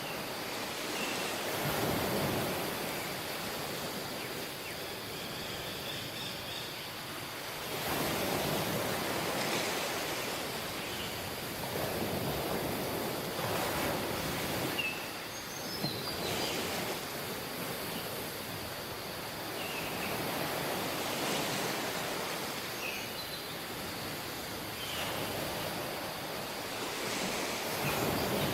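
Surf washing onto a tropical beach: a steady rush of waves swelling every few seconds as each one breaks, with short high chirps scattered through.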